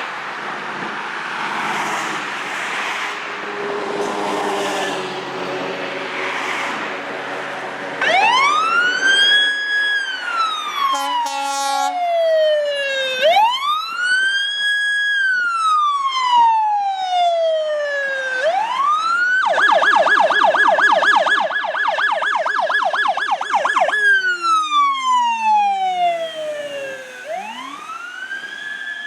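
Ambulance electronic siren responding code 3. After a few seconds of passing traffic it comes on in a slow wail, rising and falling about every five seconds, with a short horn blast a few seconds in. Midway it switches for a few seconds to a fast yelp, then returns to the wail.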